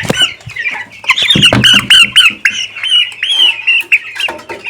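Two-week-old chicks peeping loudly and rapidly in distress as they are caught and handled for weighing, with a few knocks of handling about a second and a half in.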